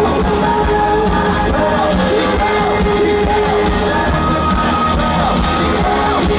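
Loud live pop-rock music with a singer, and a crowd yelling along.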